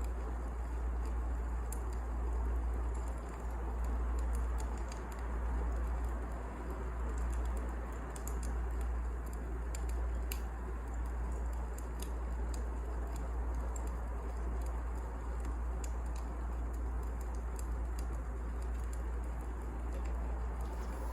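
Wood fire burning, with a steady deep rumble and scattered sharp crackles and pops at irregular moments.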